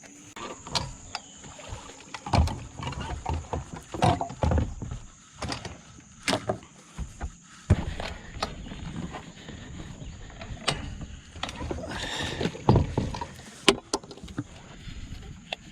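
Scattered knocks, clicks and thumps of fishing gear being handled in a boat, some of them louder bumps against the hull, over a low rumble.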